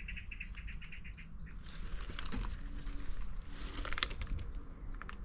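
A small bird trilling, a fast run of evenly spaced high notes that stops about a second and a half in, followed by scattered light crackles and clicks.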